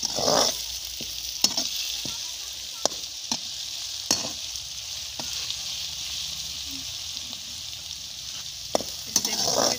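Onions and garlic-ginger paste sizzling in hot oil in a metal karahi, a steady frying hiss. A metal slotted spatula clinks and scrapes against the pan a dozen or so times as the mix is stirred.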